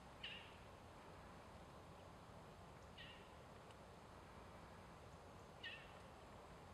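A bird calling, a short high call with a falling tail, three times about every two and a half to three seconds, over faint steady background hiss.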